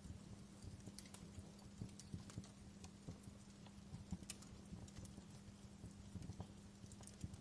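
Wood fire crackling in a fireplace: irregular small pops and snaps, several a second, over a faint steady low hum.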